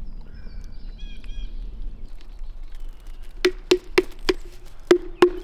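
A few faint bird chirps, then six sharp knocks: four in quick succession, then two more after a short pause.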